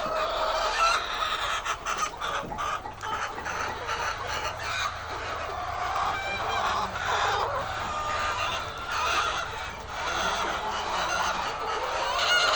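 A flock of chickens clucking and calling over one another, many birds at once.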